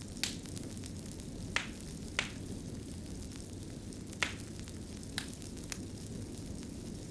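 A fire crackling: a steady low rumble of flame with six or so sharp pops and snaps scattered through it.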